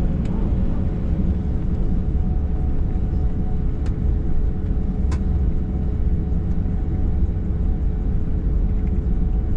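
Steady cabin rumble of an Airbus A321 airliner, engines and airflow, heard from inside the cabin, with a steady hum and a faint click twice near the middle.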